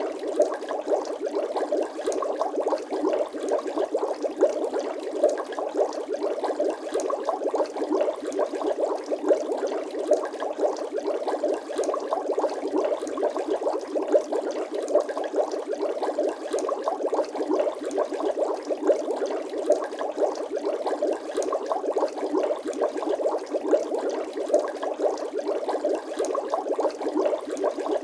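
Bubbling water sound effect: a steady, dense stream of small bubbles gurgling and popping, with no deep bass.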